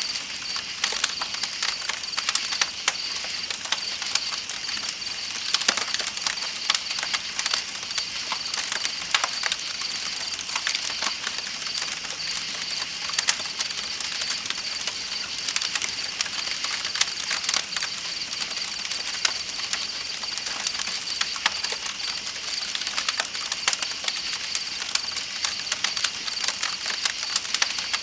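Campfire crackling with frequent sharp pops, over the steady rush of a flowing river and a constant high chirping of night insects.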